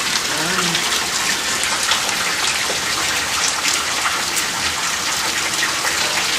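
Heavy rain and hail pelting down: a steady hiss of rain scattered with many small, sharp ticks of hailstones striking.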